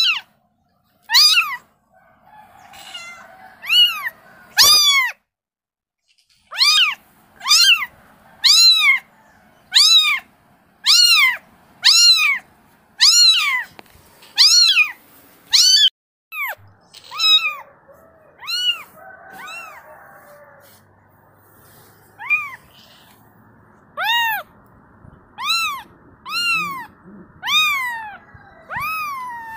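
Kitten meowing over and over, about one short, high call a second, each rising then falling in pitch, with a pause of a few seconds past the middle: a kitten calling for its mother.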